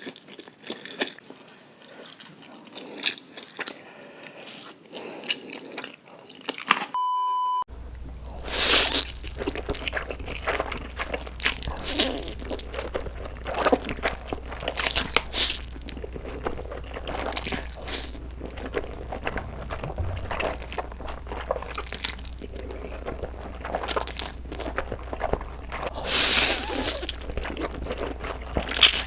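A person eating close to the microphone: chewing, biting and crunching. About seven seconds in, a short steady beep sounds, and after it the eating noises come louder and in repeated bursts over a low hum.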